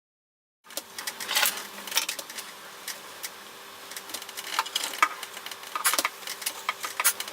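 Ender 3 parts and packaging being handled during unboxing: rustling and many light clicks and clinks, over a faint steady hum. It begins after a moment of dead silence.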